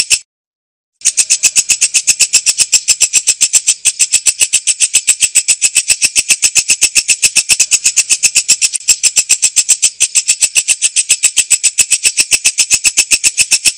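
Walang kecek katydid calling: a loud, high-pitched rattle of rapid, evenly spaced clicks, broken once by a brief silence near the start.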